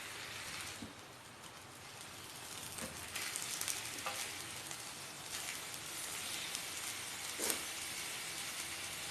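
Pork sizzling and spitting fat on a hot non-stick pan, a steady frying hiss with scattered crackles. It eases briefly about a second in, picks up again, and there is one sharp click near the end.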